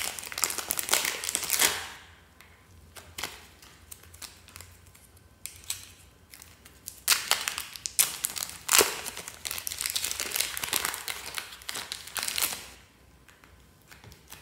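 Fluffy slime being squished and stretched by hand, with a dense crackling of small popping air pockets. It comes in two spells, one at the start and a longer one from about seven seconds in until shortly before the end, with scattered small clicks between them.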